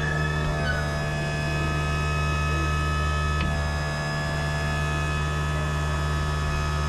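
A machine running with a steady, even hum made of several held tones, with one faint click about three and a half seconds in.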